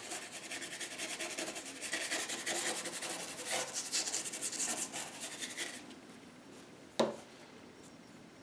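A paintbrush rubbing quickly back and forth on the painting, blending wet acrylic paint in many short scratchy strokes. The strokes stop about six seconds in, and one sharp tap follows about a second later.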